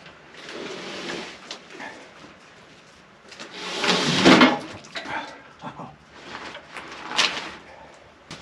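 Wood scraping and knocking as a heavy spruce slab is dragged off the log, with the longest, loudest scrape about halfway through and a sharp knock near the end.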